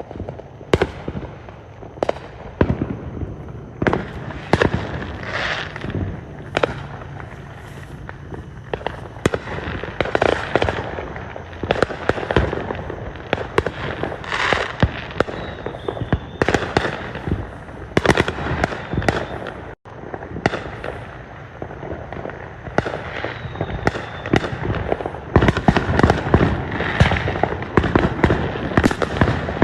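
Fireworks going off: an irregular run of sharp bangs and pops mixed with crackling, coming thicker and louder toward the end.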